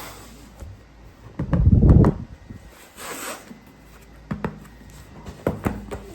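Plastic toy microwave oven being handled: a series of clicks and knocks, a heavier clatter about a second and a half in, a short hiss about three seconds in, then more light clicks.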